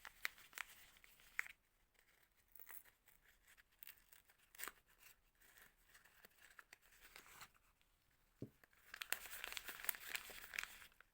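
Soap packaging being unwrapped by hand: faint crinkling and tearing of the wrapper with scattered sharp ticks. About eight and a half seconds in comes a soft knock, then a denser run of crinkling that lasts until near the end.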